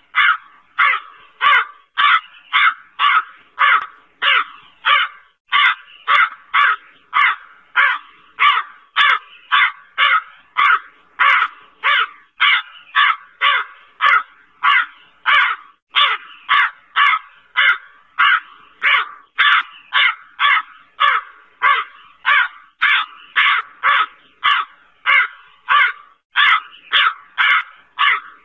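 Crow cawing over and over in short, harsh calls, evenly spaced at about two a second without a break.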